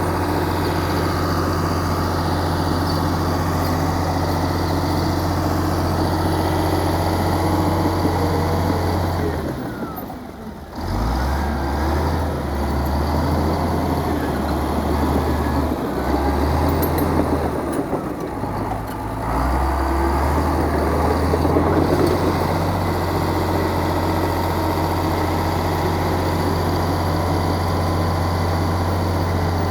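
Heavy diesel engine of earthmoving machinery running steadily. About a third of the way in it drops away for about a second, then varies unevenly for several seconds before settling back to a steady run.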